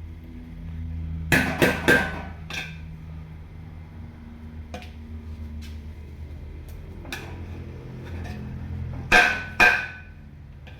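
A metal ladle knocking and clanking against a large cooking pot while biryani rice is scooped out: three quick ringing knocks, a lighter one, a few faint taps, then two loud knocks near the end, over a steady low hum.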